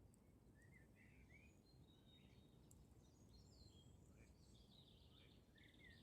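Very faint forest ambience: small birds chirping and warbling in many short calls over a low, steady background rush.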